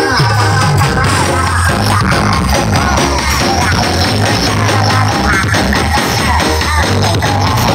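Loud music played through a large carnival sound system, with a heavy repeating bass line and a wavering sung or lead melody over it.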